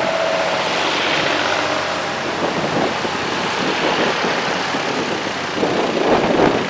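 Vintage tractor engines running as the tractors drive past, with a louder surge near the end.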